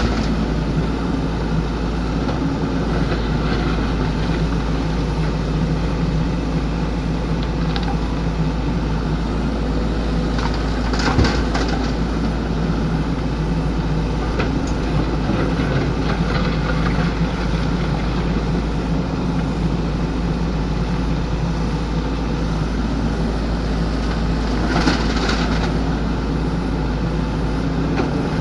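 XCMG excavator's diesel engine running steadily, with a couple of brief knocks, one about a third of the way through and one near the end.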